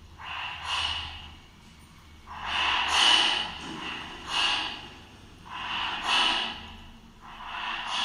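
Horse snorting: a series of loud breathy snorts, about one every one and a half seconds, some coming in quick pairs.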